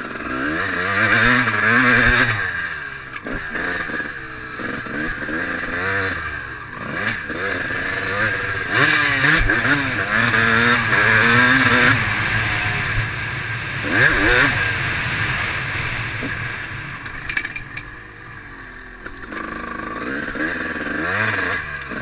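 Motocross bike engine heard from on board, revving up and dropping back again and again as the throttle is opened and shut around the dirt track.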